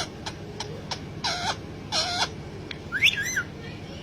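Parrot giving three short calls with bending pitch, each under half a second, after a few sharp clicks in the first second.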